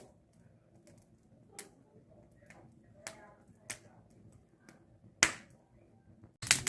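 Burning wood in a bonfire giving a few scattered sharp pops, the loudest about five seconds in. Music begins just at the end.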